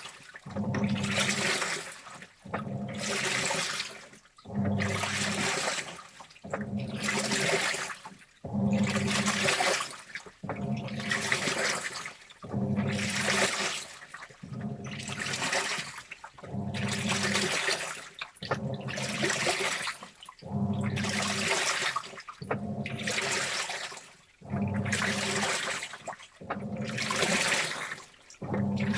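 Washing machine in its wash cycle, the drum churning water and clothes in regular pulses about every two seconds with short pauses between. Each pulse carries sloshing water over a low motor hum.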